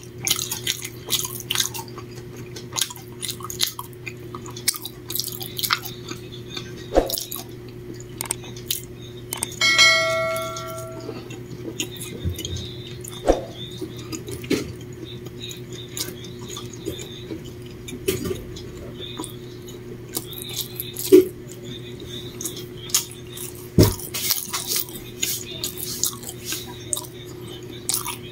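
Close-up eating sounds: irregular chewing and mouth clicks from someone eating a fried egg sandwich, over a steady low hum. About ten seconds in comes a single struck, bell-like ring that fades over about a second.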